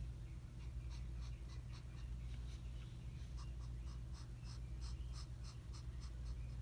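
Short, quick strokes of a drawing tool scratching across paper, about three a second, as close-set lines are hatched in, over a steady low hum.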